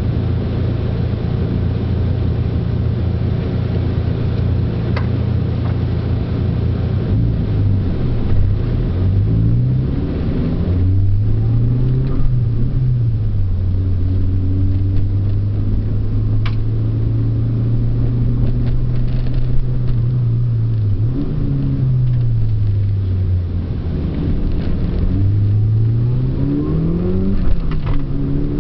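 Mitsubishi Lancer Evolution IV's turbocharged four-cylinder engine under hard driving on a race circuit. The note holds steady for several seconds, then repeatedly climbs and drops as the car accelerates, shifts gear and slows for corners.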